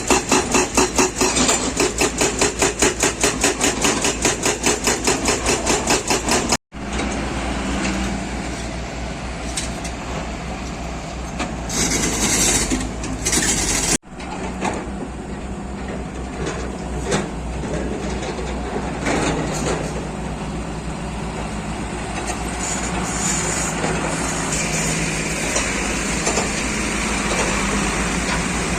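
Excavator working on hill road construction. First comes rapid, evenly spaced mechanical knocking. Then the diesel engine runs steadily, with two short bursts of hiss.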